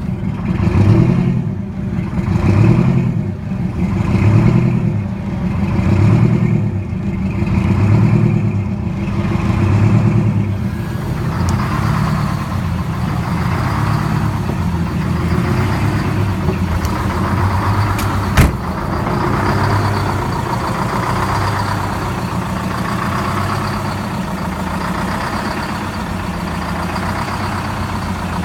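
Detroit 8V71 two-stroke V8 diesel in a cold start on ether at about 10°F, running unevenly and surging up and down about every two seconds. About eleven seconds in it settles into a steadier idle with a thin high whine. There is one sharp click later on.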